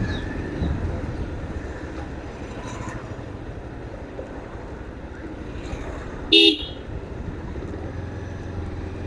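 Steady road and traffic noise with a low rumble while riding, broken by a single short vehicle horn toot about six seconds in.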